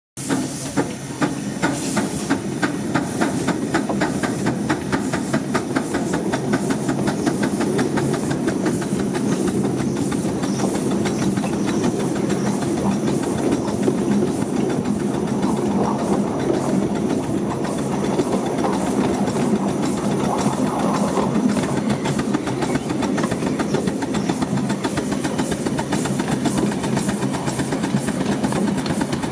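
A 10.25-inch gauge miniature railway train running on its track. A quick, even beat is heard over the first several seconds, then it settles into a steady running noise.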